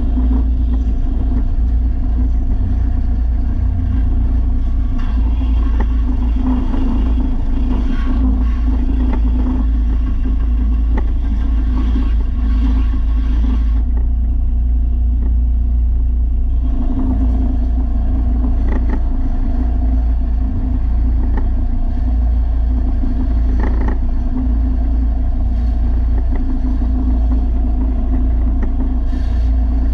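Electric belt sander running steadily, its 300-grit belt grinding the edge of a steel lawn mower blade. A little past the middle the grinding drops away for a couple of seconds, leaving the sander's motor hum alone, then resumes.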